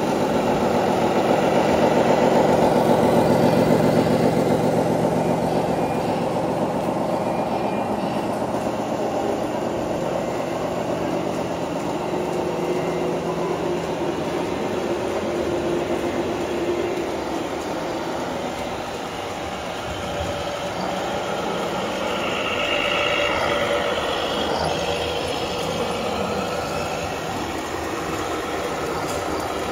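1/14-scale RC wheel loader running steadily, a mechanical engine-like sound that is loudest for the first few seconds and then settles.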